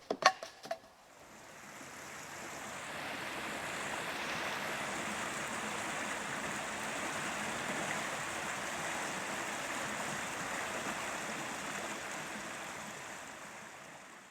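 A few sharp clicks, then a steady rushing noise that swells in over about three seconds, holds and fades away at the end.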